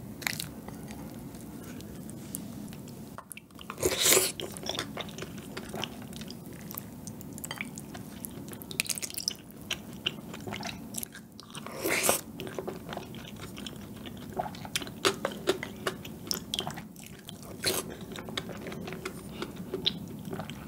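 Close-miked eating of soft chocolate sponge cake soaked in milk, spooned from a bowl: wet chewing and mouth sounds with many small clicks, and two louder bites about four and twelve seconds in.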